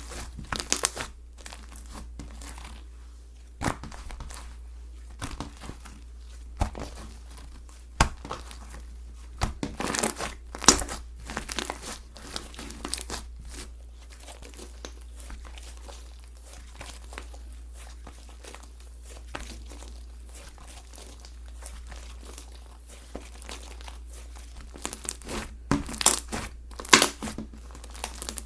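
Slime being squished and stretched by hand, making crackling pops and clicks in clusters, busiest about ten seconds in and again near the end.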